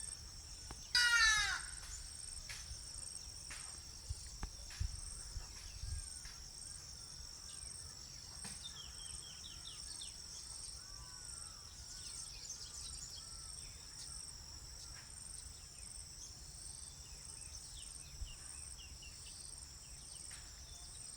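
Steady shrill chorus of insects, with one loud, harsh bird call about a second in and soft bird chirps scattered through the rest.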